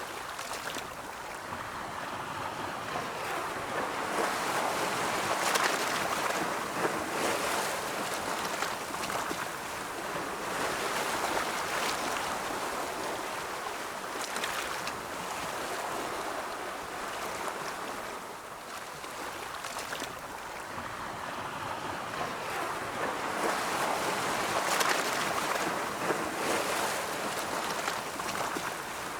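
Ocean waves breaking and washing in, a steady rush of surf that swells and falls back in slow surges several seconds apart.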